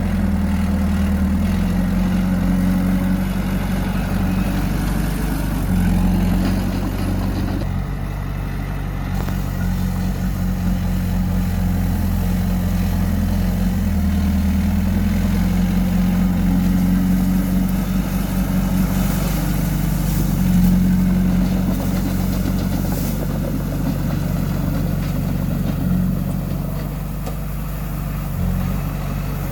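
Bulldozer's diesel engine running steadily, its pitch and load shifting slightly several times, as around six, fourteen and twenty-one seconds in.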